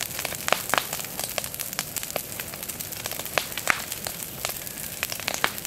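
Large bonfire of dry brush and branches burning hard: a steady hiss of flames with many sharp, irregular cracks and pops from the well-dried wood.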